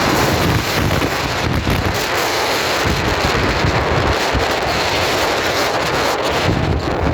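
Wind buffeting the microphone in irregular low gusts over a loud, steady rushing noise.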